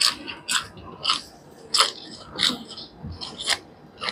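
Close-miked mouth sounds of a person chewing chicken curry with rice, wet smacks of the lips and tongue coming about every half second to second.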